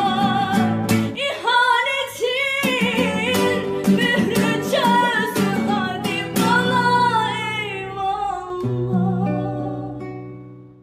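A Turkish song sung by a girl over plucked guitar accompaniment. The voice stops about seven seconds in, leaving held instrumental notes that fade out near the end.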